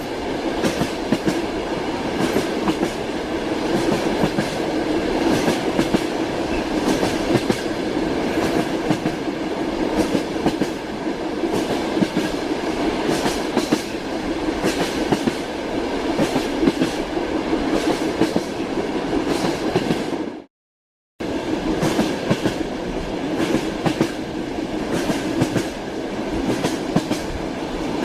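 Train wheels clacking over the rail joints with a steady rumble, as heard inside a moving railway carriage. The sound cuts out completely for under a second about twenty seconds in.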